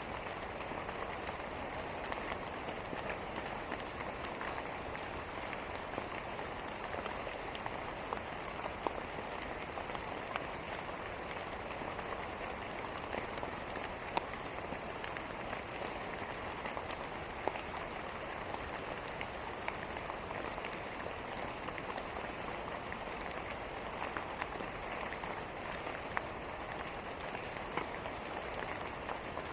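Steady rain falling, a continuous even hiss with scattered individual drops ticking.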